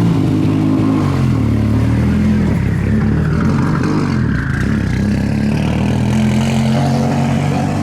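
Rally car engine running, its revs rising and falling.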